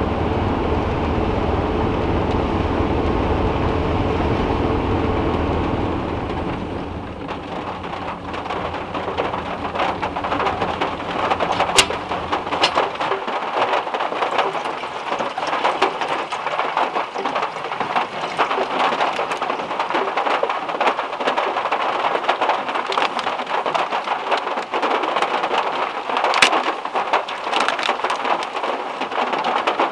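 Heavy rain drumming on a small car's metal roof, heard from inside the car: a dense, steady patter of drops with a few louder single hits. In the first several seconds a low steady rumble lies under the rain and fades out.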